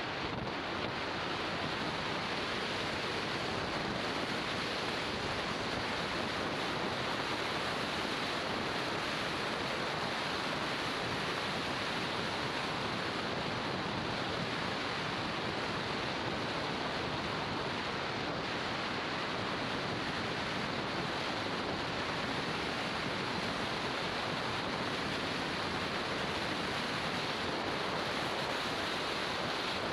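Steady rush of riding wind over the microphone of a moving motorbike, an even hiss with no changes.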